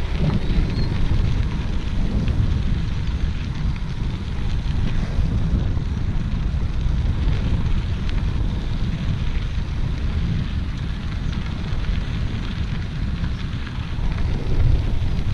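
Wind buffeting the microphone of a camera riding on a moving bicycle: a steady low rumble with a faint hiss above it.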